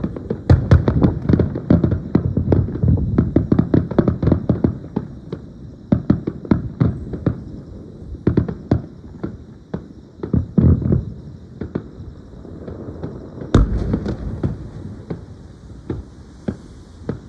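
Fireworks display: a rapid barrage of aerial shell bursts and crackles with heavy low booms. One especially loud boom comes about three-quarters of the way through, followed by thinner scattered cracks.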